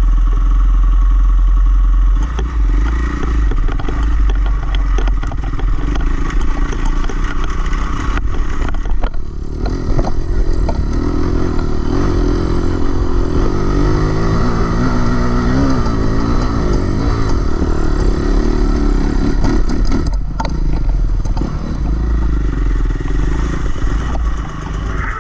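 Dirt bike engine running, its pitch rising and falling as the throttle is worked, with scattered clatter throughout.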